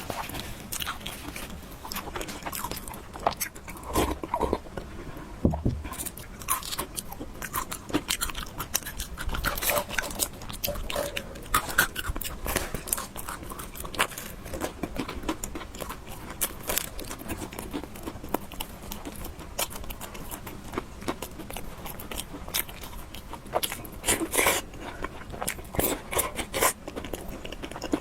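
Close-miked eating: a person biting and chewing noodles and fried egg, with many short, crisp clicks and crunches.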